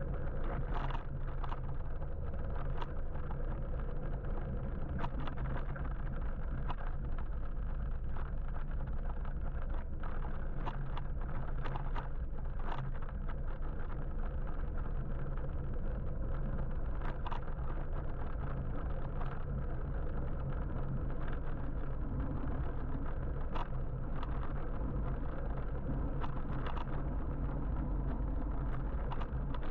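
Steady low road rumble from riding an electric motorbike through city traffic, with scattered short clicks.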